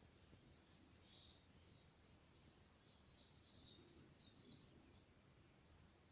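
Near silence: faint outdoor ambience with a few distant bird calls, high chirps about a second in and again from about three to five seconds in.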